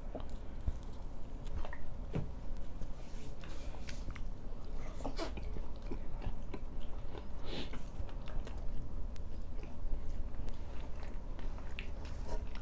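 A man chewing and biting into egg-coated flatbread close to the microphone: irregular soft clicks and mouth noises.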